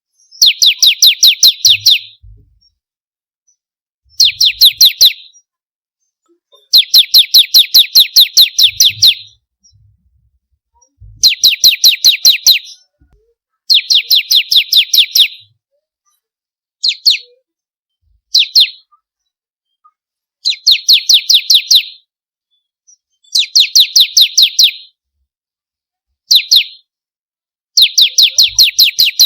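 Bar-winged prinia (ciblek) singing in repeated bursts of fast, evenly spaced high chirps, each burst one to two seconds long, with short pauses between them. Two of the bursts, past the middle, are brief.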